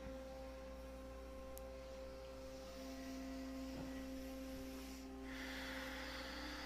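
Soft ambient drone music of long held tones at several pitches, like a tuning fork or singing bowl. About five seconds in, a soft hiss comes in under the tones.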